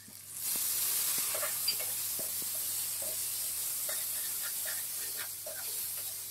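Watery spice paste poured into hot oil in a kadhai with frying potatoes and onions: a burst of hissing and sizzling that starts about half a second in and slowly dies down. A perforated metal spatula scrapes and clicks against the pan as it stirs.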